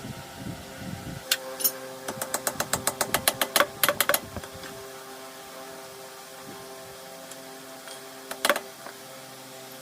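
A steady mechanical hum with a rapid run of sharp clicks, about eight a second, starting about a second in and lasting some three seconds, then a single louder knock near the end.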